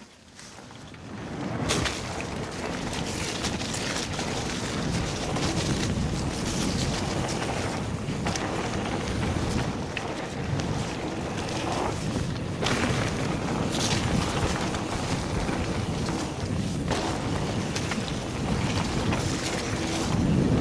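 Mountain bike being ridden along a trail: wind rushing over the chest-mounted camera's microphone, with tyre noise and short knocks and rattles from the bike, building up about a second in and then steady.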